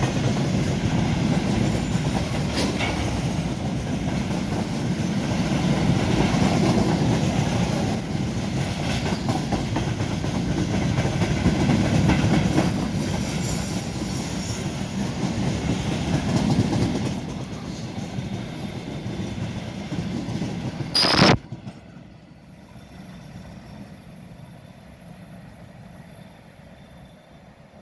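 Freight train wagons rolling past, the steady rumble of wheels with clickety-clack over the rail joints. About 21 seconds in there is a single sharp loud crack, and after it the sound drops to a much quieter, thinner rumble.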